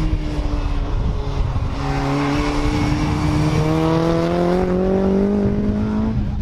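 BriSCA F2 stock car engine running hard on the track. Its pitch sags a little at first, then climbs steadily for about four seconds as the car accelerates, and falls away sharply near the end.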